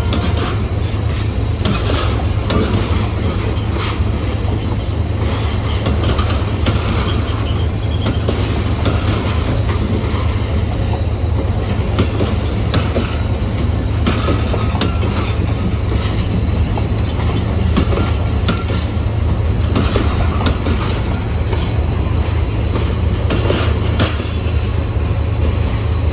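Passenger coaches of a departing express train rolling past at speed, wheels clicking over the rail joints over a steady low rumble.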